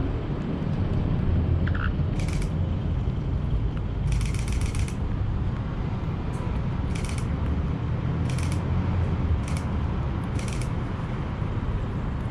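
Parrots giving short, harsh rasping calls, about six of them, over a steady low rumble.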